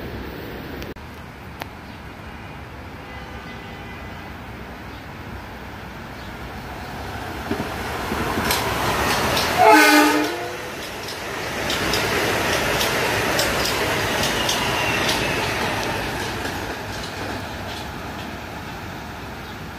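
Metro-North M8 electric commuter train passing close by, sounding one short horn blast about halfway through. Its rush and repeated clatter of wheels over the rails follow, then fade toward the end.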